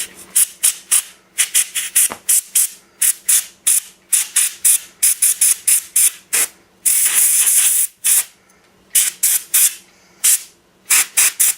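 Can of compressed air fired in many short, rapid hissing blasts, with one longer blast about seven seconds in, blowing dust and dirt out of a disassembled brushless RC motor.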